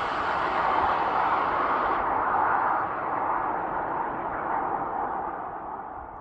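Tyre and wind noise of a BMW i5 M60 electric sedan on winter tyres driving away after passing by: a steady rushing with no engine note that grows duller and fades near the end.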